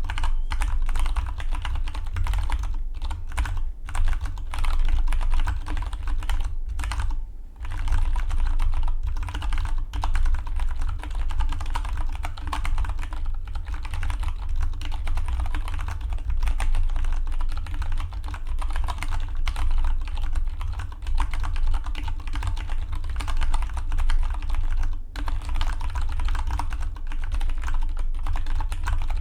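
Fast, continuous typing on a Dygma Defy split mechanical keyboard: a dense stream of key clicks with a few brief pauses.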